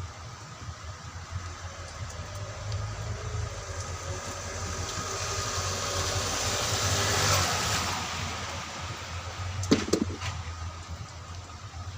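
A passing road vehicle, its noise swelling over a few seconds and fading away, over a steady low engine-like hum. Near the end comes one sharp knock.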